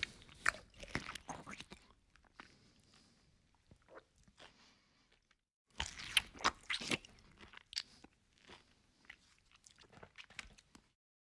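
Close-miked chewing and crunching of a mouthful of rice and fried fish eaten by hand, with wet mouth clicks. The crunching is loudest at the start and again about six seconds in as a fresh handful goes into the mouth, with softer chewing between.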